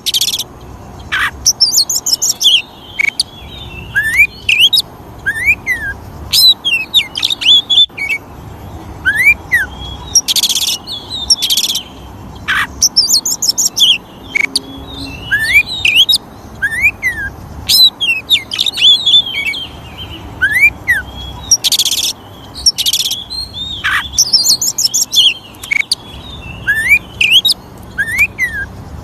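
Oriental magpie-robin singing: a varied, unbroken run of clear rising and falling whistles and fast trills. Loud, harsh rasping bursts break in every several seconds.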